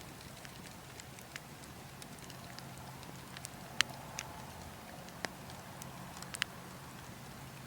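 Burning logs crackling, with scattered sharp pops, the loudest a little under four seconds in, over a steady low wind rumble.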